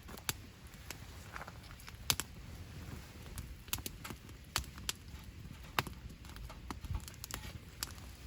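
Wood campfire crackling: irregular sharp pops and snaps, a few a second, over a low steady rumble.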